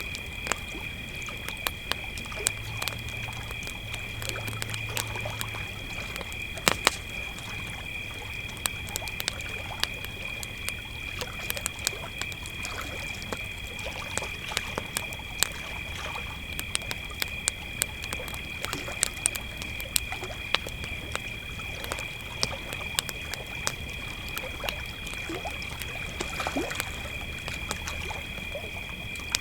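Crickets trilling steadily and without a break, over a campfire crackling with frequent sharp pops.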